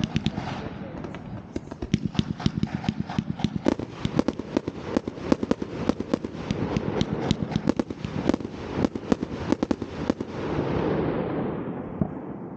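New Year's Eve fireworks going off: a rapid, dense run of sharp crackling bangs, many per second, that gives way near the end to a longer rumbling hiss.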